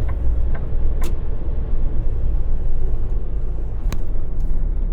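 Semi-truck engine running steadily, a low rumble heard from inside the cab while driving, with two sharp clicks, one about a second in and one near the end.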